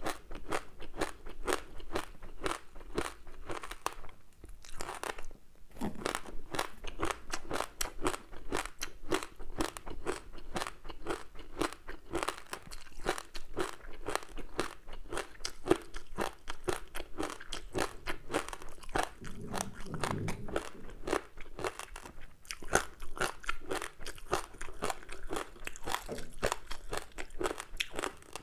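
Close-up chewing of a crispy seaweed-wrapped rice snack: a dense run of rapid crunches, with a short pause about five seconds in.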